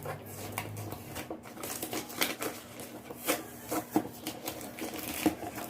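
Packaging being handled: irregular sharp clicks and taps with light rustling, a few louder knocks around the middle and near the end.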